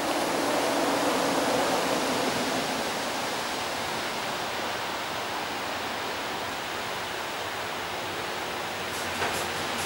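A freight train hauled by a Škoda class 181 electric locomotive approaching, heard as a steady rushing noise, with a few sharp clicks near the end.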